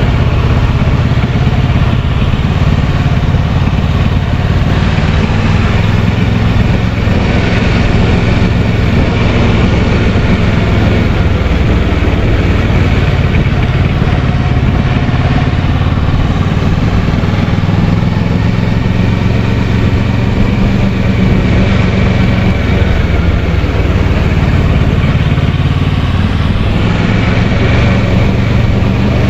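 Kawasaki Versys 650 parallel-twin engine running steadily while under way, its note shifting slightly now and then, under a constant rushing noise.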